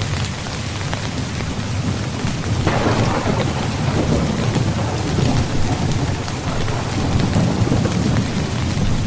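Steady rain falling on a tent, with a rumble of thunder that breaks in about three seconds in and rolls on for several seconds.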